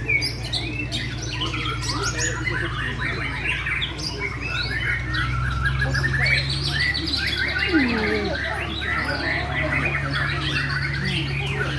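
Many caged white-rumped shamas singing at once: a dense chorus of overlapping, rapidly varying whistled song phrases, over a steady low hum.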